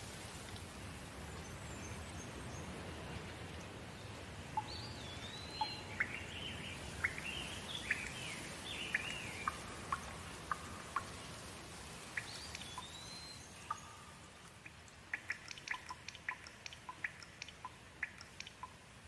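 Steady rain hiss with birds chirping over it, a string of sweeping calls between about four and ten seconds in and another near thirteen. The rain eases off in the last few seconds, where a quick run of short sharp ticks takes over.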